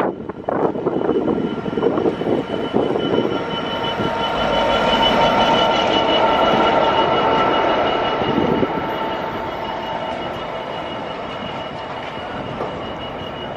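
A train running through the station, a steady mechanical whine that swells to its loudest about five to eight seconds in and then slowly fades. Wind gusts on the microphone in the first couple of seconds.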